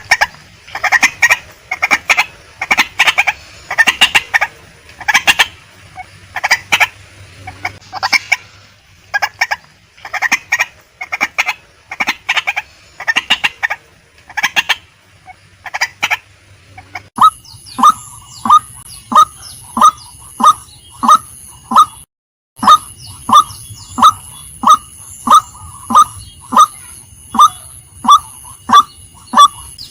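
Female white-breasted waterhen calling. First come irregular groups of harsh clucking notes. About 17 seconds in it switches abruptly to short calls repeated evenly, about two a second, over a steady high whine, with a brief gap near 22 seconds.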